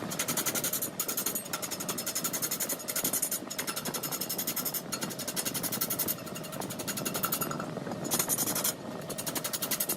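Wood lathe cutting a spinning mahogany workpiece: a rapid rattling chatter as the cutter bites, in stretches of about a second or two with brief breaks between passes.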